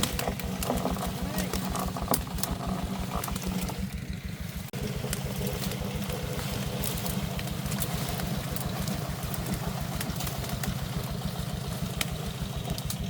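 Single-cylinder diesel engine of a công nông farm truck running at idle with a steady, rapid thumping beat. The sound dips sharply for a moment about a third of the way through, then picks up again.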